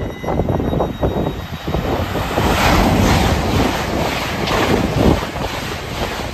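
Intercity train passing through at speed: a loud rush of wheel and air noise that swells towards the middle, with a rapid clatter of wheels on the rails and wind buffeting the microphone.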